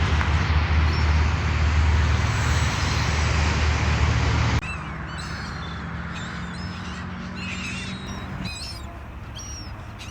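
A loud steady rushing noise with a low rumble that cuts off abruptly a little under halfway through. Birds on the beach then give short calls again and again, some bending up and down in pitch.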